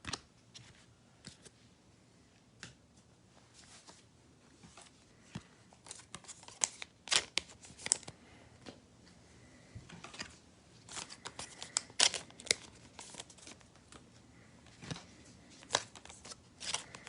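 Faint crinkling and tearing of a trading-card pack's wrapper, with scattered clicks and rustles as the cards are handled, coming in short clusters.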